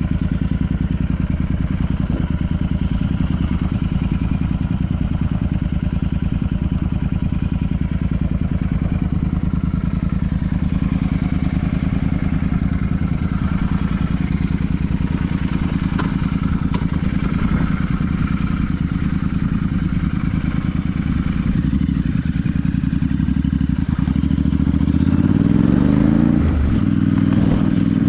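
Royal Enfield Super Meteor 650's 648 cc parallel-twin engine and exhaust running at a steady cruising speed under way. Near the end the engine note climbs sharply as the bike accelerates, then breaks off and settles again.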